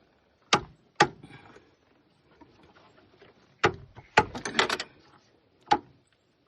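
Sharp metallic clacks from a loose piston in a Fiat Fire engine being rocked by hand against its cylinder liner: a few single knocks, then a quick rattle of several knocks about four seconds in. The knocking comes from too much piston-to-liner clearance, which the mechanic takes for used pistons fitted into honed, enlarged liners.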